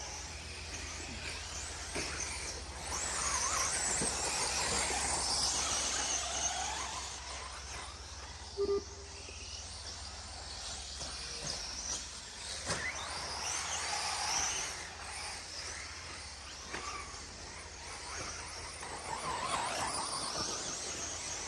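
Electric 4x4 short course RC trucks racing on a dirt track: their brushless motors whine, rising and falling in pitch as the drivers work the throttle through the corners and jumps. About nine seconds in there is one brief, loud tone.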